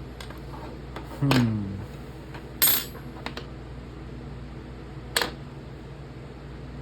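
Small metal parts clinking against a hard surface: three short, sharp clicks, the first two loudest.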